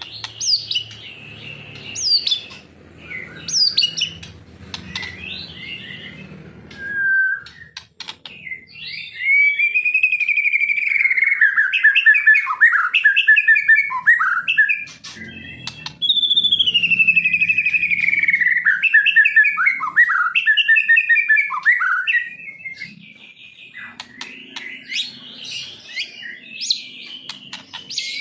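Songbird singing: a few sharp, rising chirps about two seconds apart, then a long, loud run of warbling song in falling phrases that starts suddenly and plays through the same phrase sequence twice.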